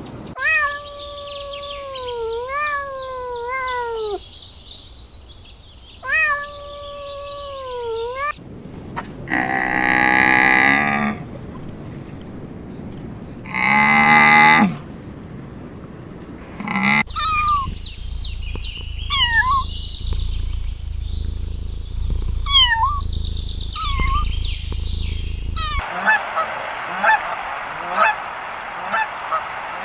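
Farm birds calling in a run of short cut-together clips. First come long drawn-out calls that bend up and down in pitch, then two loud harsh calls, then quick short honks like geese, several a second near the end.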